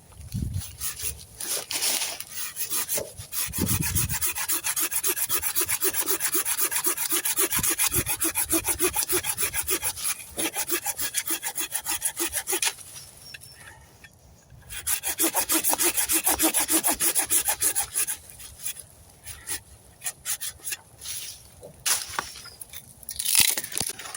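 Hand saw cutting through wood in fast, even back-and-forth strokes, in two runs with a short pause between. Scattered knocks follow, and there is a sharp knock near the end.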